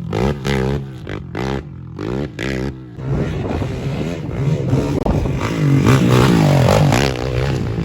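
Off-road motorcycle engines revving in short blips, then running more steadily and louder from about three seconds in.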